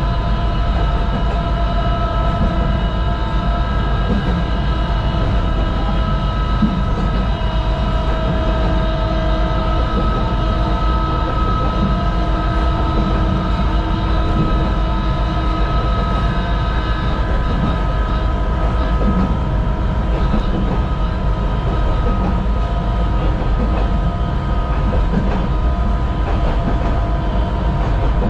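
Sangi Railway Hokusei Line 762 mm narrow-gauge electric train running along the line, heard from inside the driver's cab: a steady rumble of wheels on rail with several steady whining tones over it, the highest of them fading out a little past halfway.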